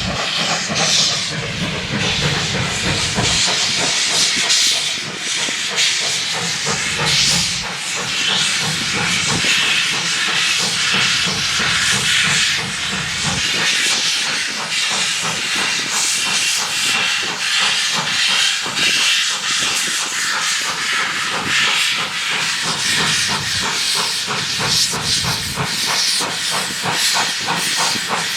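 Steam locomotive, a 2-8-0 Consolidation, working past with loud hissing steam and exhaust chuffs coming every second or two.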